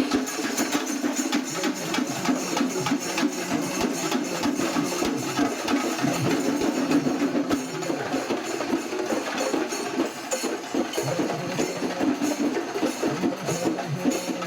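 Kerala temple festival percussion ensemble playing drums, with fast, dense strokes and no break.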